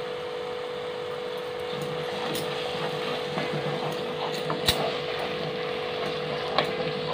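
Prawn masala sizzling in an aluminium pressure cooker as yogurt is stirred into it, with a steady hum underneath. A few sharp knocks and scrapes of the spoon against the pot come at intervals.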